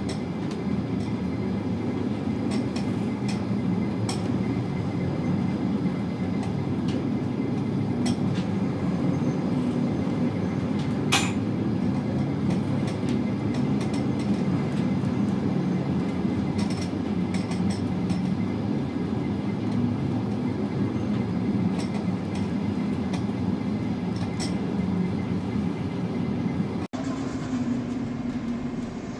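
Steady low rumble of a chemical tanker's machinery and hull working through a storm, with a few faint clinks and knocks. Near the end the sound changes suddenly to a steadier hum.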